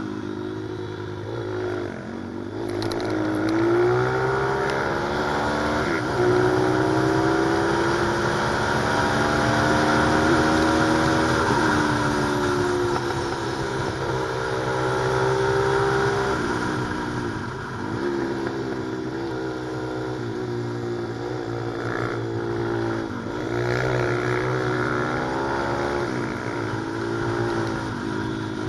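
Pit bike's small single-cylinder four-stroke engine ridden hard. Its pitch climbs under throttle and drops back again many times, with each rise and fall from gear changes and easing off.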